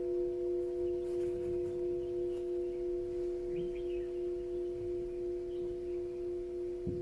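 Singing bowl ringing on in a steady, slowly fading tone, with a few higher overtones above its low note. Small birds chirp faintly, most clearly about three and a half seconds in.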